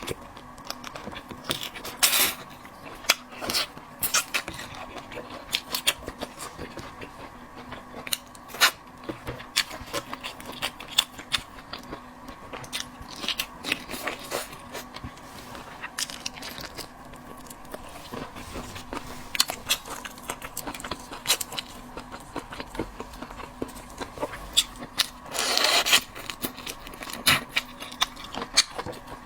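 Close-up eating sounds of seafood being chewed, with scattered sharp wet clicks and smacks over a faint steady hum, and a longer rustling burst lasting about half a second near the end.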